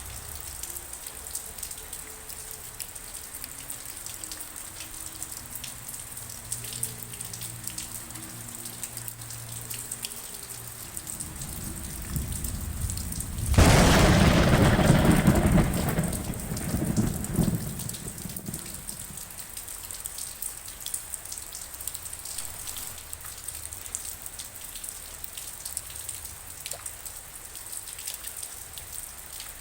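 Steady rain falling, with many single drops ticking. A little before halfway a rumble builds into a loud thunderclap that rolls away over the next few seconds.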